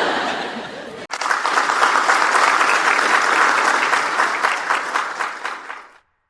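Audience applause of many hands clapping, with a brief break about a second in, then fading and stopping near the end.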